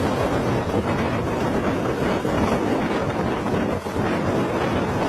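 Helicopter running close by: a steady, loud rumbling noise of engine and rotor wash, with a faint chopping rhythm.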